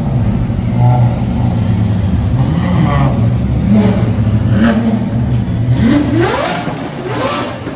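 Car engine running with short revs, then a longer rev that climbs in pitch about six seconds in.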